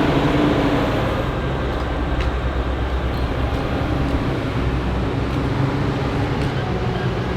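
Heavy diesel farm machinery working steadily: a low engine drone under a broad, steady rushing noise.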